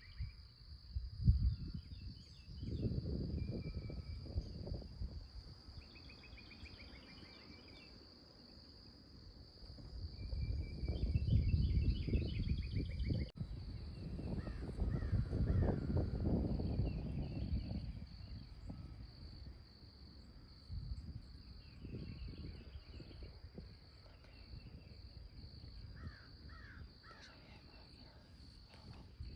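Morning woodland ambience: crows cawing, songbirds chirping and a steady high insect drone. Several long stretches of low rumble rise and fall, the loudest about ten to eighteen seconds in.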